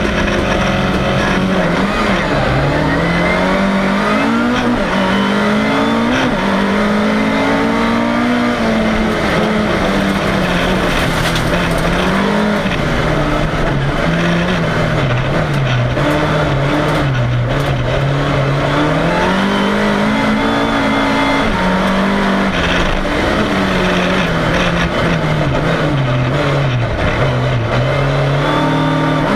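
Volvo 340 race car's engine heard from inside the cabin, loud throughout, its revs climbing and dropping again and again every few seconds as the car accelerates and lifts off.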